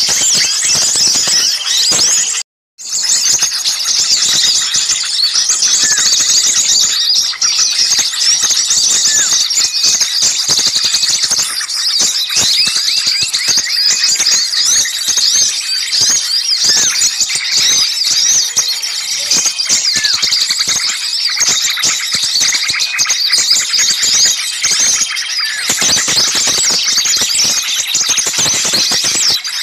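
Noisy chorus of many small birds chirping and calling over one another, dense, high-pitched and unbroken: a mixed small-bird lure recording. The sound cuts out completely for a split second about two and a half seconds in, where the track is spliced.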